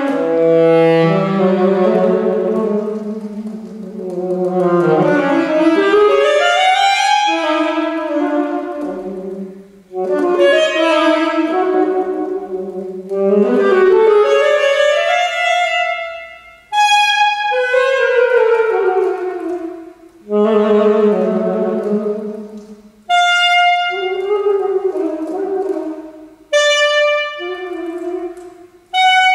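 Saxophone playing a contemporary classical solo piece: phrases of held and sliding notes, broken by short pauses that come more often toward the end, in a reverberant hall.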